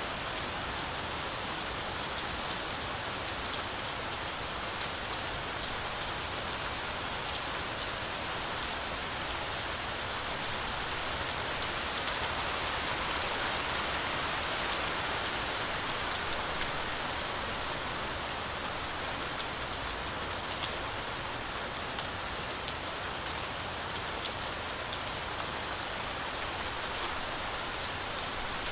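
Steady heavy rain falling on a forest canopy, a dense even hiss with fine scattered drop ticks, swelling slightly in the middle.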